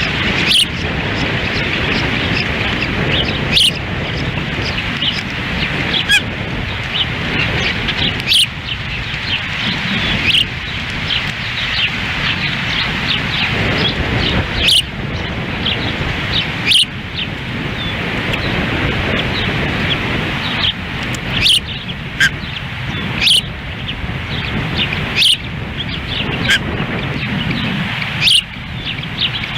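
Strong wind rushing and rumbling over the nest camera's microphone, with short, high osprey chirps every couple of seconds.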